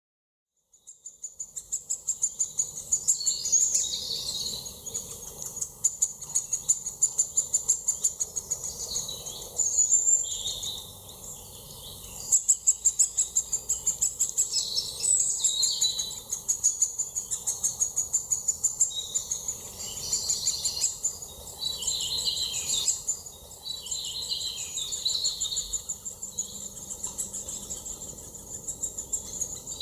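Several birds singing at once, fading in over the first second or so: fast, high-pitched trilling phrases repeat throughout, over varied warbling song.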